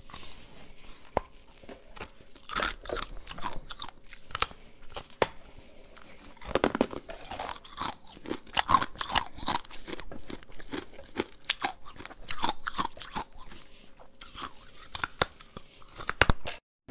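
A person biting and chewing crunchy food: an irregular run of crisp crunches, with louder clusters every few seconds.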